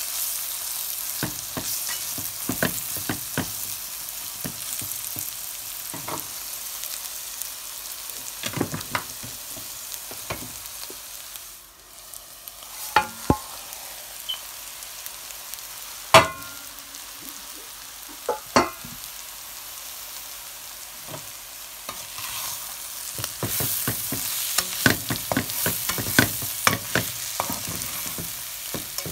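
Vegetables and chilli powder sizzling in a hot metal pan while a metal slotted spatula stirs, scraping and knocking against the pan. The sizzle dips briefly a little before halfway, and the stirring clatters more busily near the end as the fried egg is mixed in.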